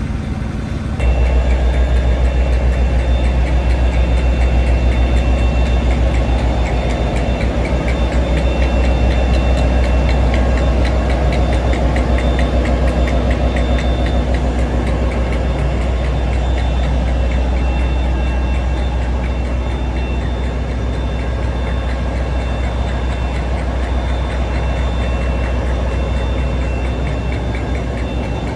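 Heavy locomotive engine running with a deep, steady rumble at a standing train. It gets suddenly louder about a second in.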